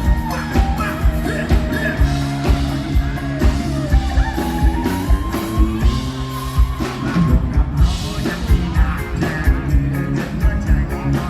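Live band music with a steady drum beat and sustained bass and melody notes.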